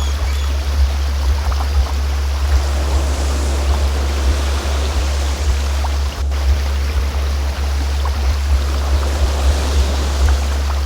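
A steady deep tone, the healing frequency of a sound-therapy track, held under the even rush of a flowing stream.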